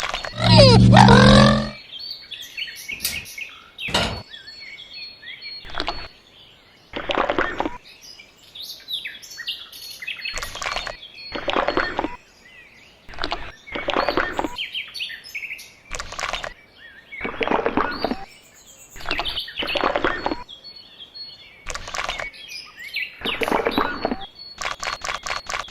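Birds chirping throughout, over a run of short scraping or rasping strokes about every one to two seconds. Near the start there is a loud, brief pitched sound that rises and falls.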